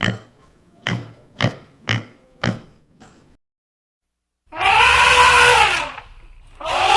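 Pig grunting in short, sharp grunts about half a second apart. After a sudden cut, a different animal gives a long, loud call that rises and falls in pitch, and a second call begins near the end.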